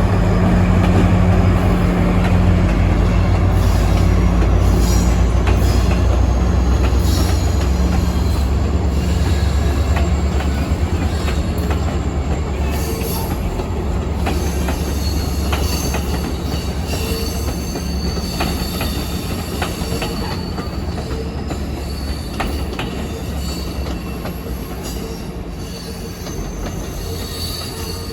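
A train rolling past: a heavy low rumble that slowly fades, with wheels clicking over rail joints and thin, high wheel squeal coming in about halfway through.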